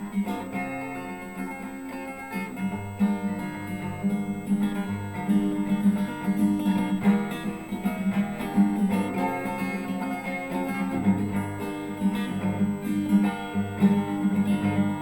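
Acoustic guitar strummed steadily, playing chords.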